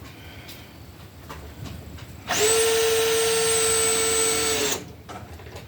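Electric power tool, likely a drill, motor running at one steady pitch for about two and a half seconds, starting and stopping abruptly a little over two seconds in.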